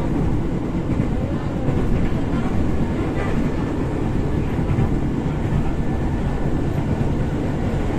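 Steady running noise of a KRL electric commuter train, heard from inside a moving passenger car: a continuous rumble of the carriage on the rails.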